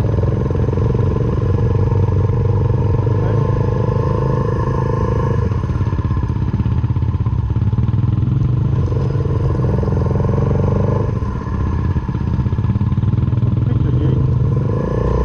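Suzuki Van Van 125's single-cylinder engine, fitted with an aftermarket full exhaust, running under way. The engine note shifts a couple of times, with a brief dip in loudness about eleven seconds in.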